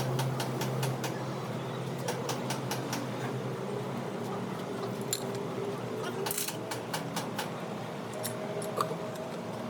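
Scattered light metallic clicks and clinks of metal tools and parts being handled during truck gear repair work.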